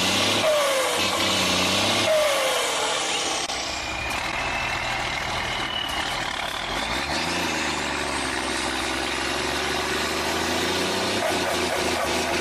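Heavy diesel truck engine running under changing load, with a high whistle that slides down and then climbs again through the middle.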